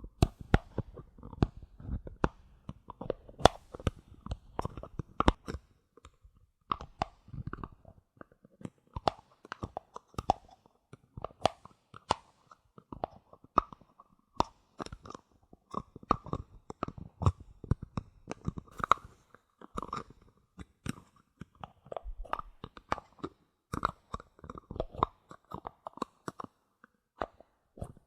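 Bottle caps tapped, clicked and handled close to the microphone: a dense, irregular run of sharp clicks and taps with a few short pauses.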